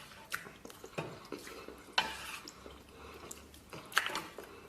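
Eating sounds: quiet chewing with scattered sharp clicks of utensils against dishes, the clearest about a second, two seconds and four seconds in.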